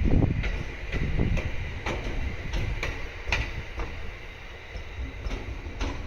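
A 701 series electric train running past over the track, its wheels clicking over the rail joints every half-second or so. The low rumble fades as it moves away.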